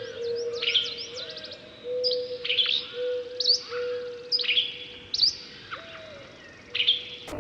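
Small birds chirping: clusters of short, sharp calls that each drop quickly in pitch, repeated every second or so, over a faint steady low tone.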